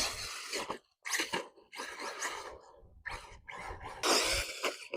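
ARRMA Typhon 6S RC buggy driven over rough construction-site dirt in short throttle bursts. It makes about five hissy, crunching spurts of tyres and motor, each under a second with brief gaps between, the loudest near the end.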